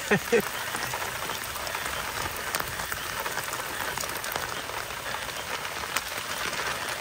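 Steady monsoon rain falling: an even hiss scattered with many small, sharp drop ticks.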